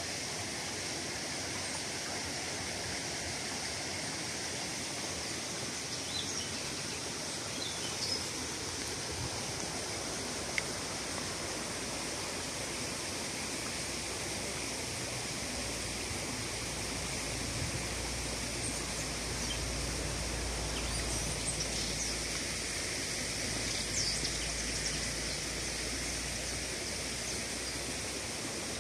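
A stream running steadily, with a few short, high bird chirps scattered over it.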